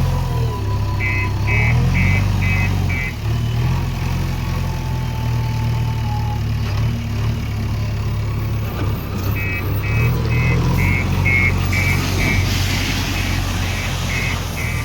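Heavy diesel engine running steadily, with an electronic warning beeper of the kind fitted to reversing machines, at about two to three beeps a second. The beeper sounds for about two seconds near the start and again from about halfway to the end.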